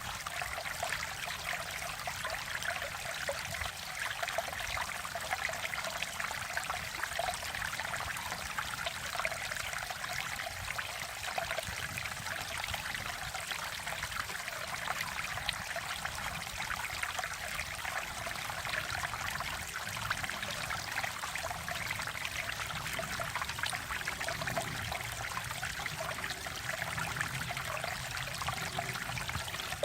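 Mountain valley stream flowing over rocks: a steady, even rush and trickle of water.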